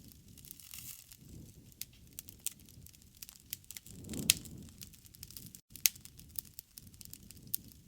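Wood campfire crackling: irregular sharp pops over a low rumble of flames, the loudest pop a little past four seconds in.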